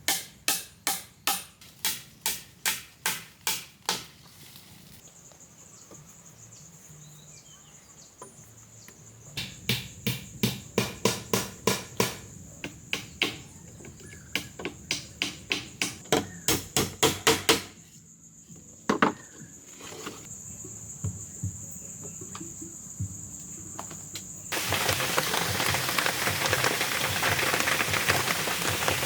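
Runs of rhythmic tool blows on wood, about three strikes a second, over a steady high insect drone. Near the end steady rain sets in.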